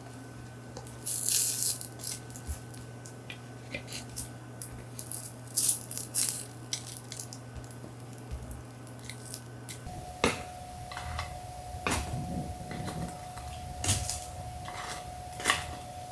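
Light clinks and taps of kitchenware being handled over a steady low hum, with the background changing abruptly about ten seconds in.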